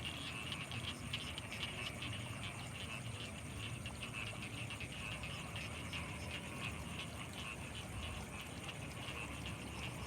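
A dense chorus of frogs calling in quick, overlapping repeated pulses, with a thin steady high tone above it.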